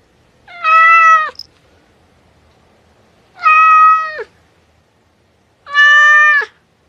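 Domestic cat meowing three times, each meow under a second long, holding a fairly level pitch and dropping at the end, spaced about two and a half seconds apart.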